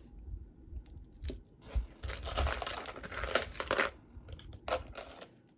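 Rustling and crinkling handling noise as jewelry pieces are picked up and moved, with a few light clicks; the crinkling runs for under two seconds from about two seconds in.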